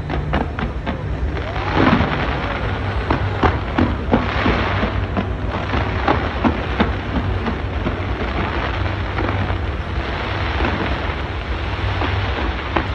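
Fireworks going off: a rapid run of bangs and crackling bursts, thickest a couple of seconds in, over a steady low rumble.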